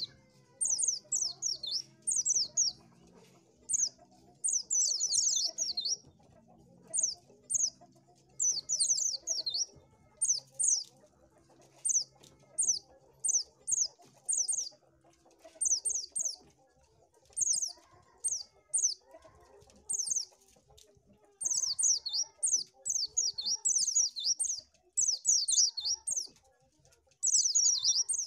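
White-eye (pleci) singing: short bursts of rapid, high, twittering notes, repeated about once a second with brief pauses between phrases.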